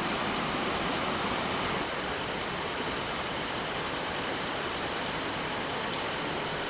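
A swollen mountain stream rushing past close to the microphone, a steady, even wash of water noise from its strong rainy-season current.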